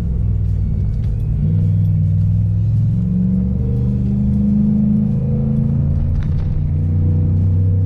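Chevrolet Silverado V8 running through a homemade 3.5-inch axle-dump catback with a Dynomax Race Mini Bullet muffler, a deep exhaust rumble heard from inside the cab while driving. The pitch climbs in steps over the first few seconds as the revs change through the gears, then settles a little lower.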